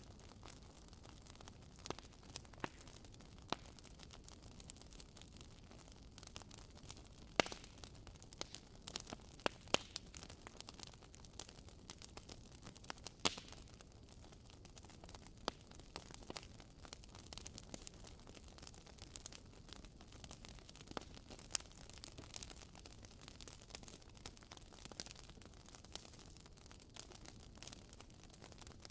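Wood fire burning in a fireplace: firewood crackling, with irregular sharp pops over a low hiss.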